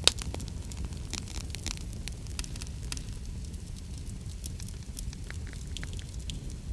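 Wood fire crackling in a fireplace: a steady low rumble of burning with scattered sharp pops and snaps, one loud pop right at the start.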